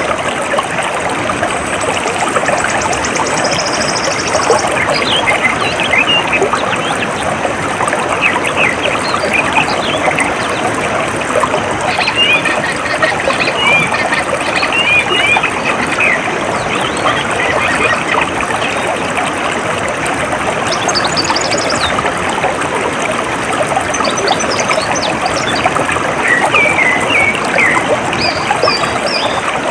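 Steady trickle of a small stream of flowing water, with songbirds chirping in short phrases over it and a high, fine trill in the first few seconds.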